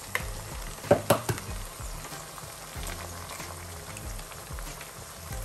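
Eggs and onions frying in oil in a nonstick pan, a steady sizzle, with a few sharp knocks about a second in.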